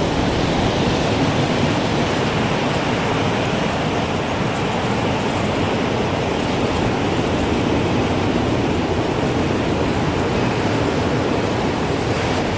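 Strong gusting wind rushing steadily, a dense hiss with no chime tones ringing through it.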